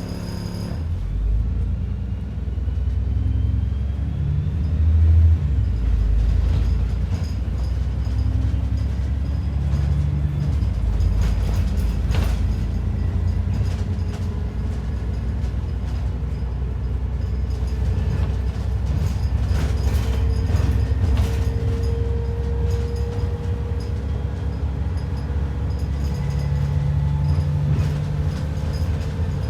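ADL Enviro 400 double-decker bus under way, heard from inside: a steady low engine and road rumble with a mechanical whine that shifts in pitch and occasional rattles and clicks.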